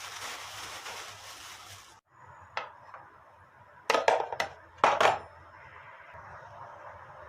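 Kitchen dishes and utensils being handled: a steady rushing hiss for about two seconds that cuts off suddenly, then a single clink and two quick bursts of clattering a little later.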